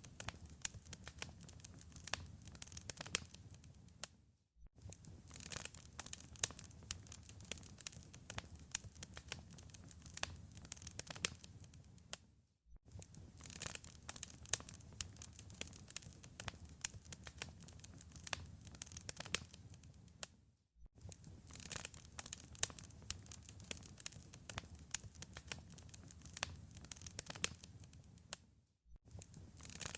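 Wood fire in a fireplace crackling and popping over a low rumble of flame. It cuts out briefly about every eight seconds.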